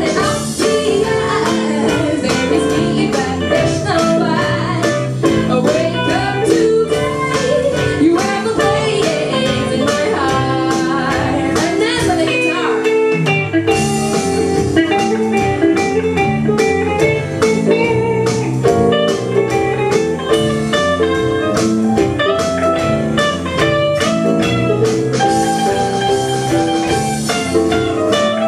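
Live band playing an instrumental break of a pop-rock song: a lead guitar carrying the melody over bass and a steady drum beat.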